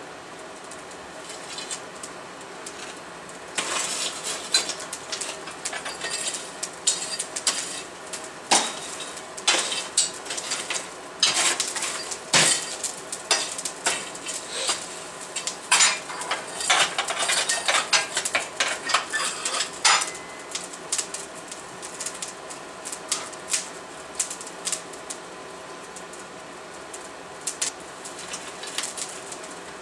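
Metal-on-metal clinks and strikes of blacksmith work on steel at the anvil, dense and irregular for most of the first two-thirds, then only a few scattered clicks over a faint steady hum.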